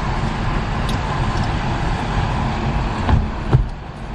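Parking tram moving, a steady low rumble of motor and tyres on the road, with two short thumps about three seconds in.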